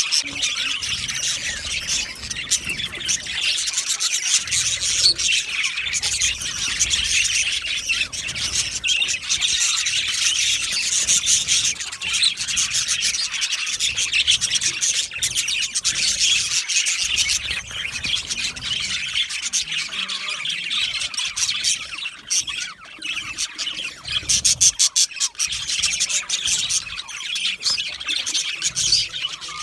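Budgerigars singing and chirping in a continuous busy chatter of quick sharp notes, with a louder flurry near the end.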